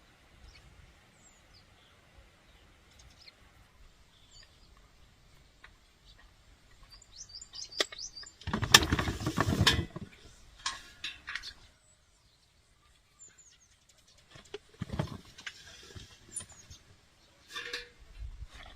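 Birds chirping faintly in the background, with a loud burst of handling noise, many quick clicks close together, about halfway through and shorter ones later.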